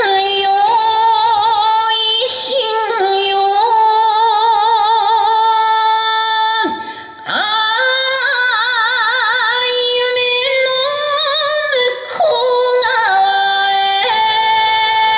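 A woman singing slow, long held notes with wide vibrato, breaking off briefly twice, about seven and twelve seconds in: the sung opening of the team's yosakoi dance song.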